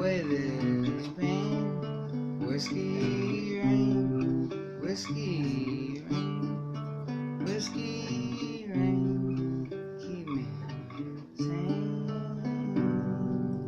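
Acoustic guitar playing the song's closing bars, strummed and picked chords with moving bass notes. Near the end a final chord is left to ring and fade.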